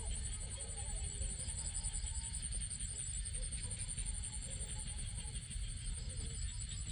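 A high, steady, rapidly pulsing insect trill with faint chirps beneath it, over a continuous low rumble.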